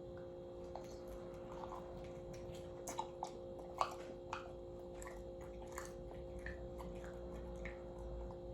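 A person biting into and chewing a crispy fried chicken leg: scattered, irregular crunchy clicks, over a faint steady hum.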